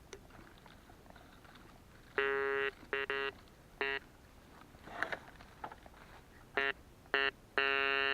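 Metal detector sounding its target tone as the coil is swept over a buried metal object: a series of steady, same-pitched beeps, short ones about 2 to 4 s in and again near the end, the last one held longer.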